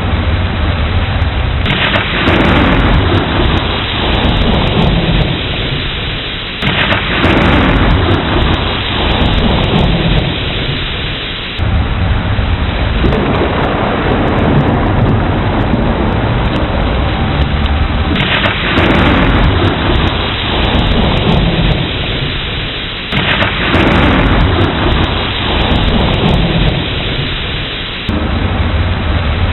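Heavy rain falling steadily under rolling rumbles of thunder. The sound swells abruptly and then fades back every five seconds or so.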